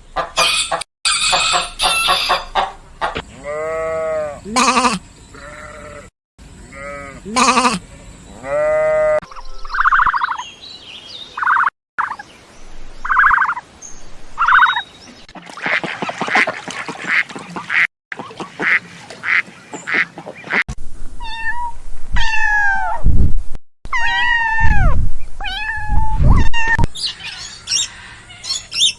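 Farm poultry calling, ducks quacking among them, in a string of short clips cut one after another. Near the end come several loud calls that fall in pitch.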